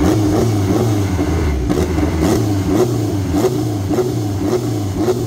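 Car engine running with an uneven idle, its pitch wavering up and down.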